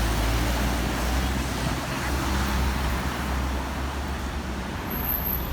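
Street traffic noise with a steady low engine drone from a nearby motor vehicle.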